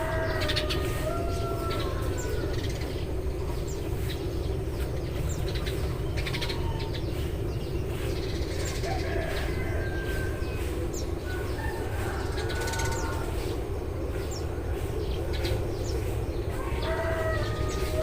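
Eurasian tree sparrows chirping in short scattered notes over a steady low background hum. Near the start and again near the end, a longer call of a few held, stepped notes sounds over the chirping.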